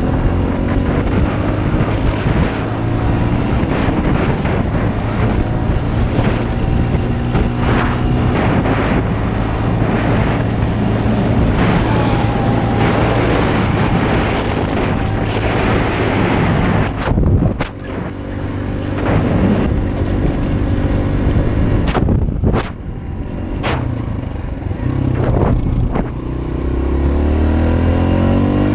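Dirt bike engine running while the bike rides a rough trail, with dense rushing noise. A few sharp knocks come about two-thirds of the way through, each followed by a brief dip. The engine note changes pitch near the end.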